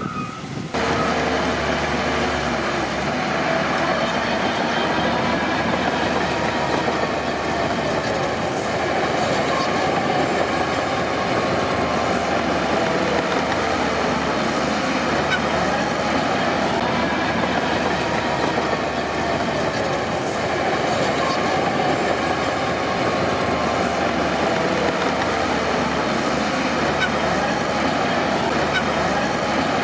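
Crawler bulldozer at work: its diesel engine running steadily with the clank of its steel tracks and a wavering track squeal, coming in abruptly about a second in.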